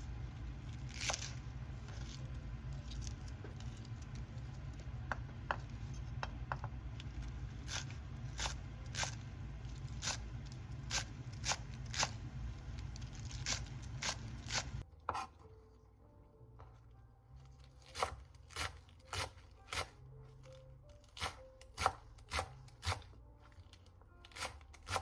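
Knife chopping on a cutting board in slow, even strokes, about one or two a second. A steady low hum runs underneath and stops about 15 seconds in.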